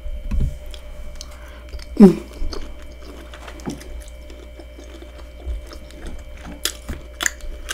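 A person chewing seafood-boil food close to the microphone: soft wet mouth clicks and smacks, with a brief voiced 'mm' about two seconds in and a few sharper clicks near the end.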